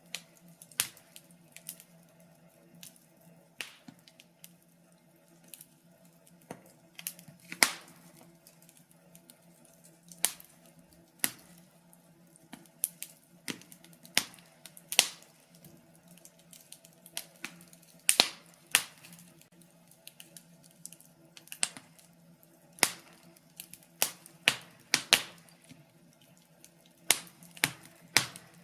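Wood fire crackling: irregular sharp pops and snaps, a few every second or two, over a faint steady hum.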